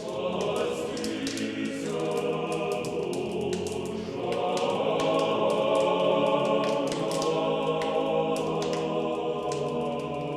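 Church choir singing slow, sustained chords in the manner of chant, playing as closing music; it swells a little about four seconds in.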